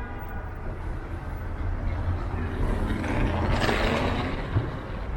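City street traffic: a steady low rumble of vehicle engines, with a vehicle passing close whose tyre and engine noise swells and fades about three to four seconds in.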